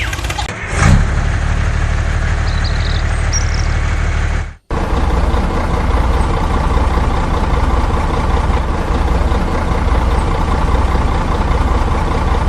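Engine running steadily, with a brief louder swell about a second in. The sound drops out completely for a moment a little after four and a half seconds, then carries on unchanged.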